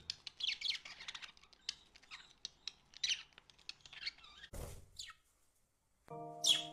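Pet budgerigars chirping and chattering in quick short notes, mixed with sharp little clicks. About four and a half seconds in there is a brief noisy burst, then a moment of silence, and music begins near the end.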